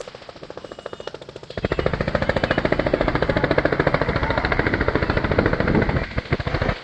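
A large vehicle's engine running with rapid, even firing pulses. It is revved up about a second and a half in, held, then let back down toward idle near the end.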